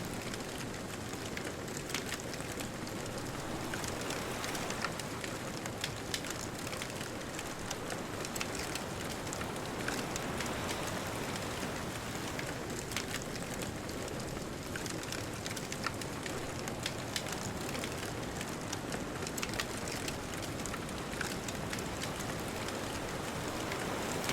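Bonfire crackling with frequent small sharp pops over a steady rushing wash of distant ocean surf, swelling slightly near the end.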